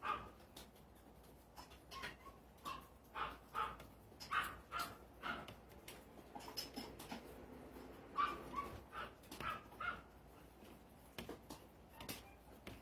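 A dog barking repeatedly in short clusters of barks, with a brief lull midway.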